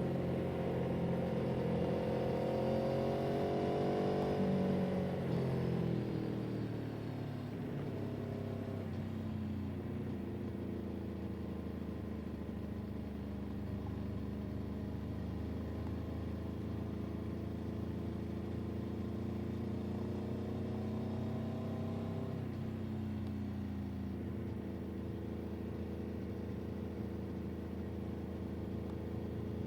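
Motor vehicle engine running while driving: the revs climb for the first few seconds, drop away around five to seven seconds in, then hold steady, with a short fall in pitch about 22 seconds in, like a gear change.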